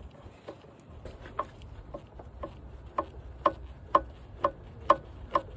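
Ratchet wrench clicking in short swings, about two clicks a second, loosening a bolt on the air intake in a tight spot. The clicks get louder from about three seconds in.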